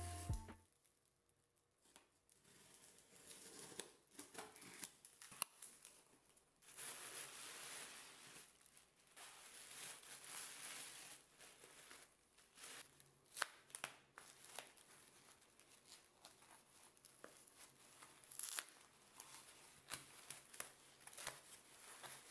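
Faint handling sounds: rustling and crinkling with scattered light clicks, coming and going irregularly.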